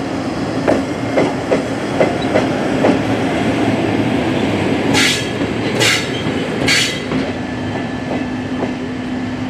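Train rolling past, its wheels clicking over rail joints, over a steady rumble and a low hum. A little past halfway come three short hisses, each under half a second, about a second apart.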